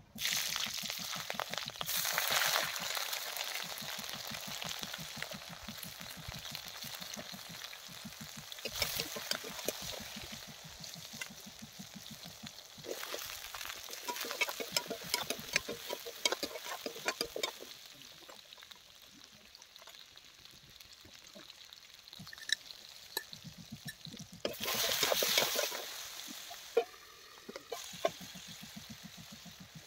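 Potatoes and onions sizzling as they fry in hot oil in a pan, with a ladle stirring and scraping against the pan. The sizzle swells louder at times, most loudly about 25 seconds in.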